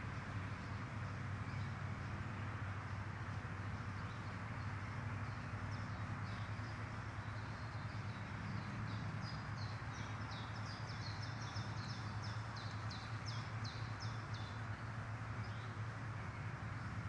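A bird chirping in a quick run of high notes, about two or three a second, starting about six seconds in and fading out near the end, over a steady low hum and hiss.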